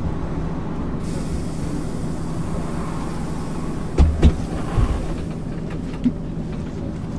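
MAN ÜL 353 bus running steadily, heard from inside the passenger cabin as a constant engine drone. About four seconds in, a few loud low thumps come in quick succession, then a single smaller knock.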